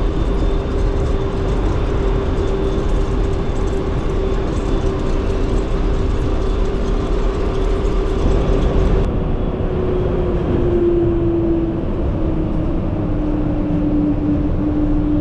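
PHX Sky Train airport people-mover, heard from inside the car while it runs, with a steady rumble and a steady motor whine. About ten seconds in, the whine drops in pitch as the train slows toward its stop.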